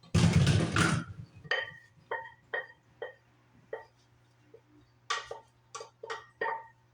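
A loud noisy burst lasting about a second, then a dog whining in short, high whimpers, roughly two a second, with a gap in the middle.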